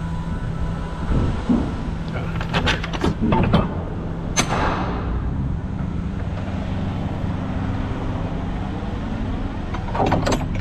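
Kenworth T680 semi truck's diesel engine idling steadily. A few clanks and knocks come a couple of seconds in, then a short, sharp hiss of air about four seconds in, with more clicks near the end.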